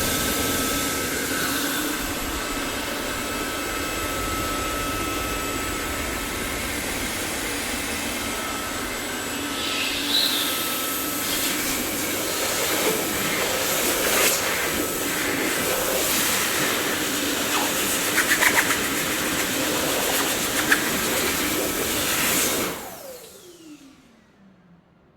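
Dyson vacuum cleaner running with a steady airy whoosh, a few short clicks and rattles heard midway. Near the end the motor is switched off and winds down with a falling whine to near silence.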